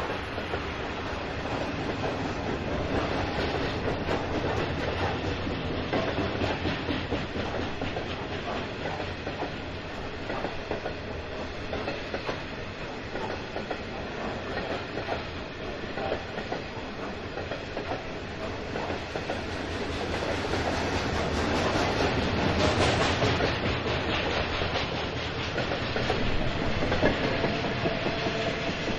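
Coal freight train rolling past, its wagon wheels clattering steadily on the rails, louder about two-thirds of the way through.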